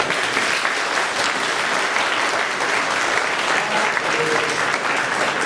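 Audience applauding in a hall: steady, dense clapping by many people, tailing off just after the end.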